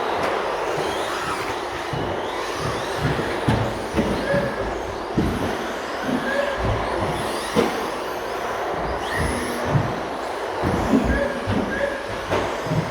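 Radio-controlled stadium trucks racing round the track, their motors whining up and down, with uneven low rumbles and short recurring tones over the noise.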